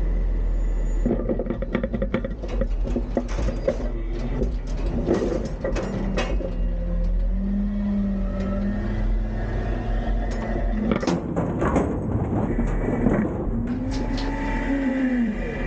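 Front-load refuse truck (Autocar-Heil) working a commercial recycling container: the engine runs steadily while loose recyclables clatter and knock into the hopper in the first half. Later the engine and hydraulics rise and fall in pitch twice as the arms work, the second time near the end.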